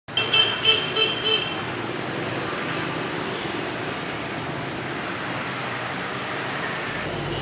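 City street traffic noise, with a vehicle horn honking four short times in the first second and a half, then a steady wash of passing traffic.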